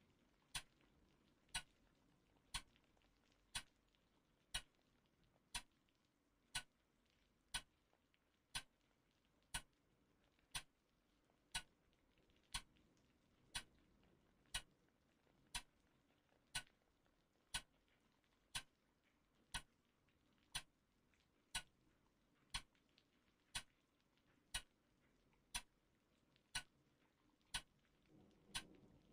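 Clock ticking steadily, about once a second, over a faint low background hum; a soft low rumble swells near the end.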